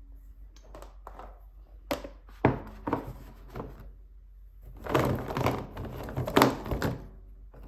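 Handling sounds on a tabletop: a series of sharp knocks and thunks as objects are picked up and set down, with rustling between them and a busier cluster of knocks in the second half.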